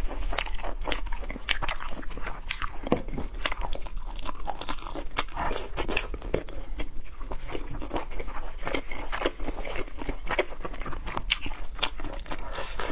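A person chewing and biting crunchy seafood close to the microphone: a steady run of crisp crunches and wet chewing.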